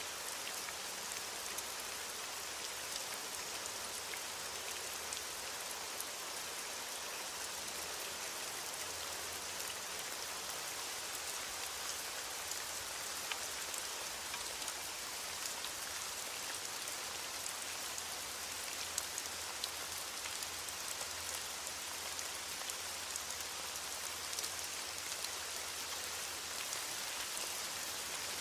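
Steady rain falling, a continuous hiss dotted with many small raindrop ticks.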